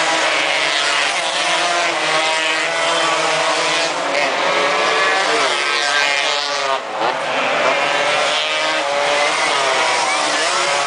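Several racing motorcycle engines running hard at once, their pitch rising and falling as they rev, accelerate and pass. There is a brief dip in level about seven seconds in.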